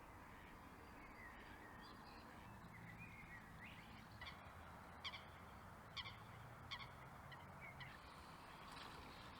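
Faint bird calls over a quiet, steady outdoor hiss: a few soft chirps, then a series of short, sharp calls about a second apart.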